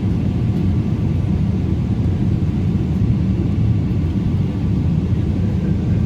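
Steady low rumble in the cabin of a Boeing 777 taxiing, its GE90 engines running at taxi power.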